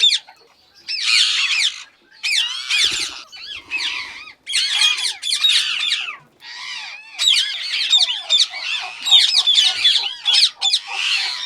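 Rose-ringed (Indian ringneck) parakeets squawking: a run of harsh, screechy calls one after another, with a short lull about a second in.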